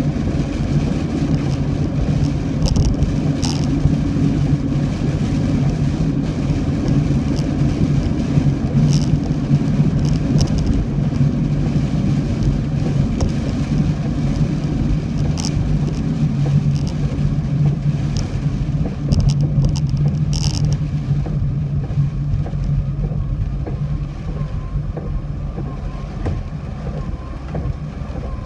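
Car driving: steady engine and road noise with a constant low hum, and a few brief sharp ticks. The noise eases slightly near the end.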